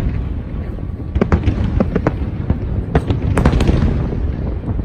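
Aerial fireworks display going off: a continuous low rumble of shell bursts with sharp crackling bangs, thickest about a second in and again around three seconds in.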